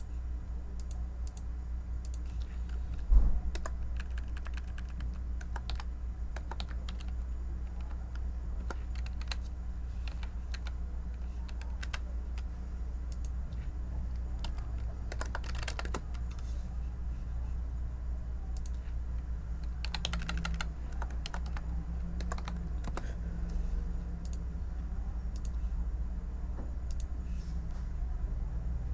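Typing on a computer keyboard: irregular key clicks with a few quicker runs, over a steady low hum. One single louder knock about three seconds in.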